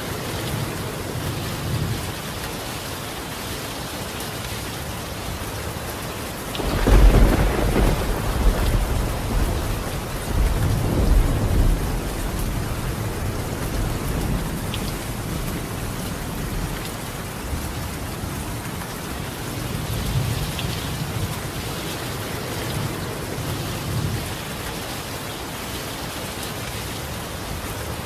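Steady rain falling on a tiled roof, with a loud roll of thunder starting about a quarter of the way in and rumbling on for several seconds, swelling again shortly after. Softer, distant rumbles of thunder come later.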